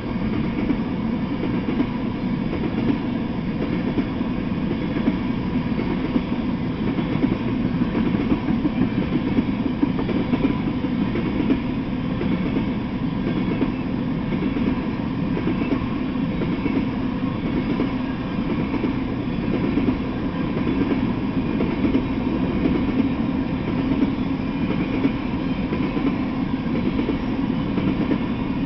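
Freight train of tank cars rolling slowly by: a steady low noise of wheels on rail.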